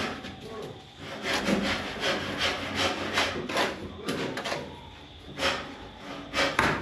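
A hand tool rasping back and forth in quick, rhythmic scraping strokes, about two to three a second. The strokes pause briefly about a second in and again near the five-second mark.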